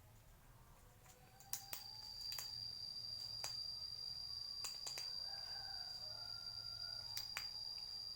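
A cricket trilling: one steady high-pitched note that starts about a second and a half in and holds. Sharp single clicks sound about eight times, irregularly spaced.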